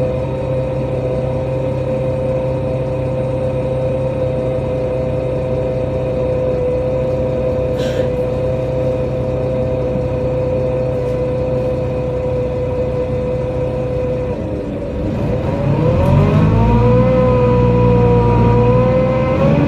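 NefAZ-5299 city bus driving, heard from inside: a steady engine and drivetrain whine holds one pitch for most of the time, then about fifteen seconds in it dips and climbs again, louder, as the bus accelerates.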